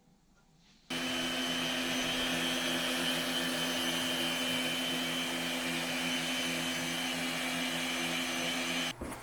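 Electric power-tool motor running steadily with a constant high whine, starting abruptly about a second in and cutting off near the end.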